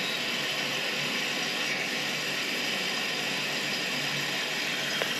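Toilet running after a flush: a steady hissing, rattling rush of water that does not let up, an unusual noise for the toilet.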